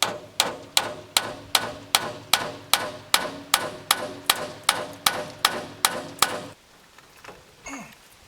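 A hammer strikes the hydraulic cylinder's metal parts in a steady run of about seventeen even blows, roughly two and a half a second. Each blow rings, and the run stops about six and a half seconds in.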